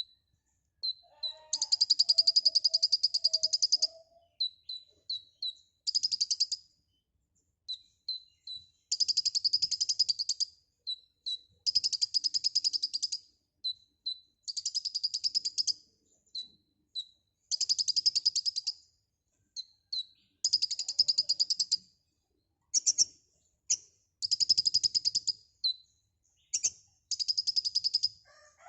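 A konin (kolibri ninja sunbird) singing vigorously in full song. It gives repeated high-pitched trills of very fast notes, each lasting a second or two, with short single chirps between them.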